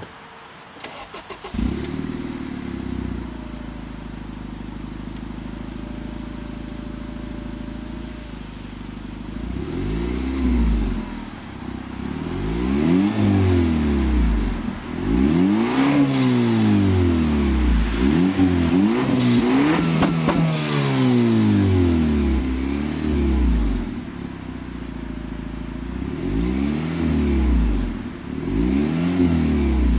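Acura RDX engine through a full 3-inch Magnaflow exhaust with a tuned downpipe. It starts about a second and a half in and idles steadily, then from about ten seconds on it is blipped again and again, each rev rising and falling in pitch.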